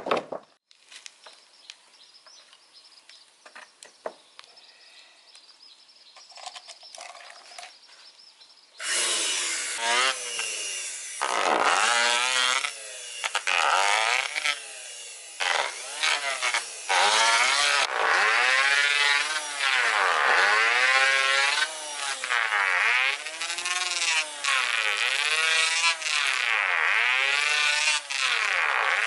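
Hand saw cutting through wood in steady back-and-forth strokes, about one stroke a second, starting roughly nine seconds in after a stretch of faint knocks and handling sounds.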